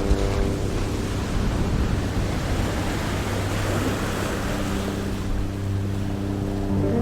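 Steady rushing of surf and wind, with soft background music holding low sustained notes underneath that fade in the middle and come back near the end.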